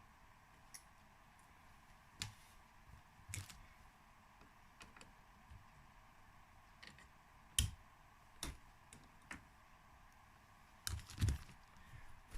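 Scattered sharp clicks and light knocks of metal engine parts and tools being handled while a dirt bike's kickstart shaft and spring are refitted. The louder knocks come about eight seconds in and again near the end.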